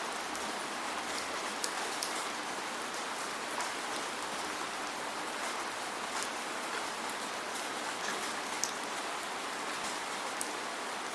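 Steady rain falling, an even hiss of rainfall with scattered sharp ticks of single drops landing close by. No thunder.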